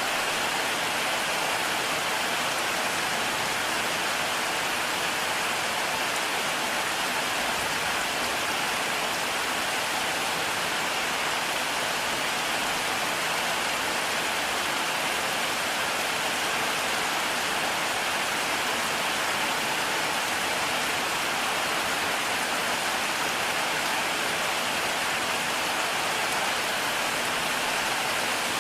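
Heavy rain falling in a steady, unchanging downpour, an even hiss with no breaks.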